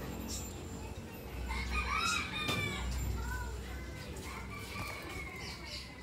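Bird calls: a short run of bending, whistled notes about a second and a half in, followed by a few fainter ones a little later.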